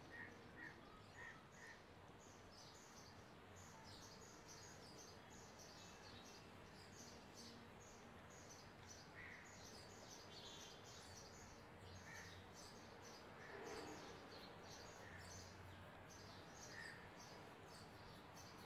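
Faint small-bird chirps repeating irregularly over a quiet background hiss, with a brief soft rustle about three-quarters of the way through.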